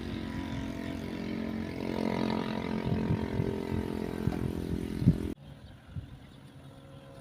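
A small engine running steadily at constant speed, with some low knocks under it. It cuts off abruptly about five seconds in, leaving quieter background noise.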